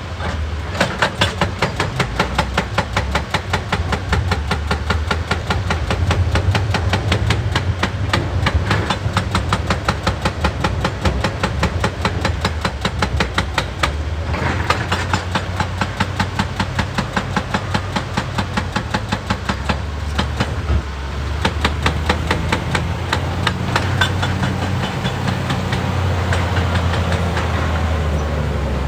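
Excavator-mounted hydraulic rock breaker hammering rock in rapid, even blows, several a second, over the steady low running of the excavator's engine. The hammering breaks off briefly about 14 seconds in and again around 20 seconds, and thins out near the end.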